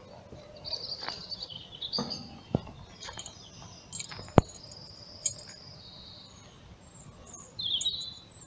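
Birds singing in short, wavering, high-pitched phrases, with a few sharp clicks scattered through, the loudest about halfway.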